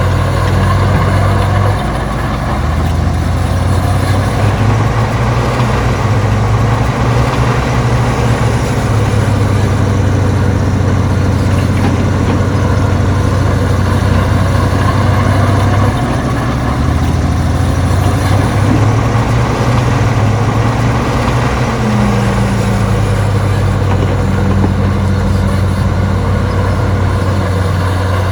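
Heavy earthmoving machine's diesel engine running continuously, its engine note stepping up and down several times as it works.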